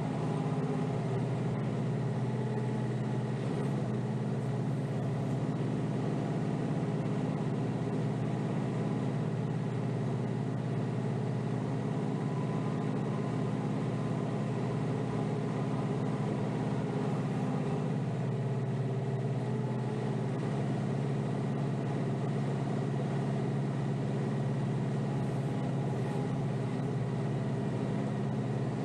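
Diesel engine of a Kioti DK5320SE tractor running steadily, with a steady whine mixed in and no clear change in speed.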